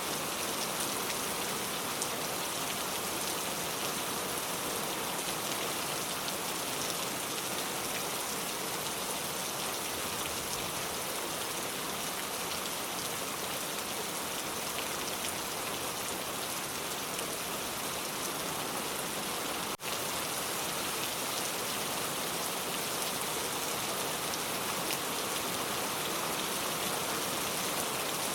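Steady rain falling, a dense, even patter of many drops on surfaces. About two-thirds of the way in the sound drops out for a split second.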